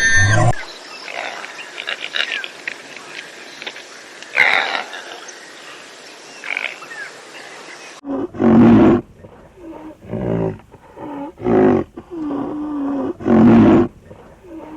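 A wild animal calling: a stretch of hissy outdoor background with a few faint chirps, then four loud, harsh calls a second or so apart in the second half.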